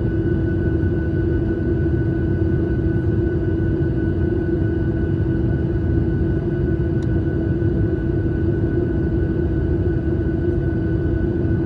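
Airliner cabin noise in flight: a steady drone of engines and airflow with an even hum over it, unchanging throughout, and one faint click about seven seconds in.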